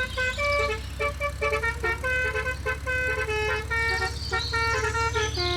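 Steady low motor hum under a quick run of short, horn-like beeping tones that jump up and down in pitch, several a second, like a tune.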